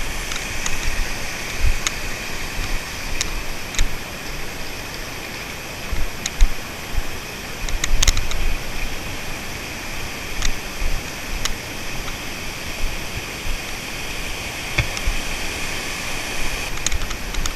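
Steady rush of running water, with scattered sharp clicks and short low knocks over it.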